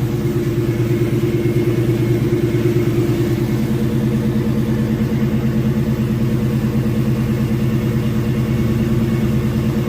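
Carbureted GM LS V8 engine idling steadily with an even, fast exhaust pulse, running again on a newly replaced fuel pump.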